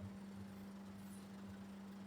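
Faint steady low hum under a soft hiss, with no distinct event.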